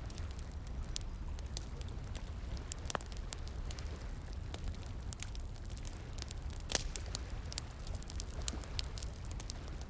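Wood fire crackling, with irregular sharp pops, over a steady low rumble. One pop about two thirds of the way through is louder than the rest.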